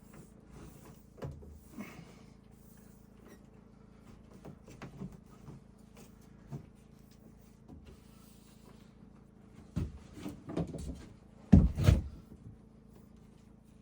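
Scattered knocks and clunks, like wood being handled, that build to a cluster of louder thuds near the end, over a faint steady hum.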